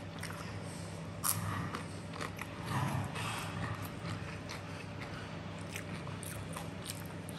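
Chewing a mouthful of rice and crunchy balado crisps, with a sharp crunch about a second in and many small wet mouth clicks.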